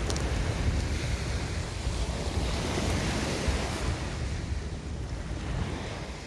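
Sea surf washing steadily on the shore, with wind buffeting the microphone in a low rumble.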